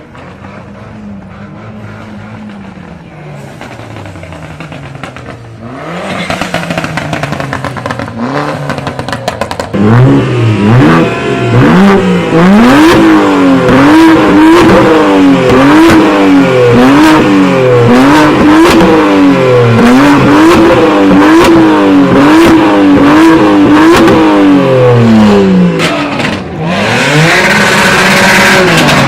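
Car engine being revved over and over, its pitch climbing and dropping with each blip of the throttle. The first ten seconds are quieter; after that come loud, regular revs, roughly one a second.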